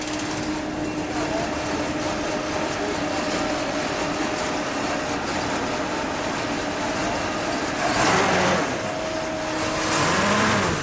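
1960 Buick Electra 225's 401 cubic-inch Wildcat 445 nailhead V8 running at a steady, loping idle, which is put down to a choke that needs adjusting. A louder rush comes about eight seconds in and again near the end.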